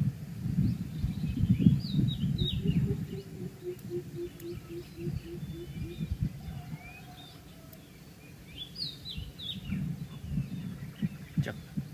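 Small birds chirping in short, high calls over a low, uneven rumble. From about two and a half to six seconds in, a run of evenly spaced low notes sounds, about three a second.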